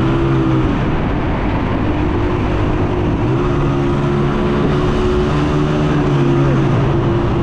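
Honda 125 motorcycle's single-cylinder four-stroke engine running steadily under way, its pitch dipping and coming back up briefly about half a second, three seconds and six and a half seconds in, over steady wind and road noise.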